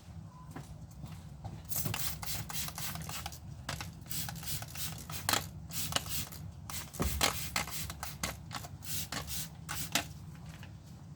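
Quick, irregular scrubbing strokes, cleaning dirt out of a car's rear light recess, starting about two seconds in and easing off near the end.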